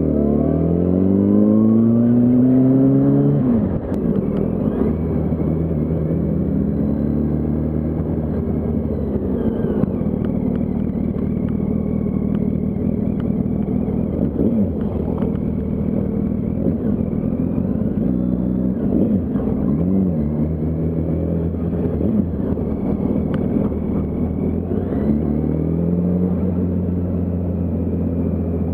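Yamaha R1's inline-four engine accelerating, its pitch rising for about three and a half seconds until it drops abruptly at a gear change, then running at steady revs. The revs dip and climb again about two-thirds through, and rise once more near the end.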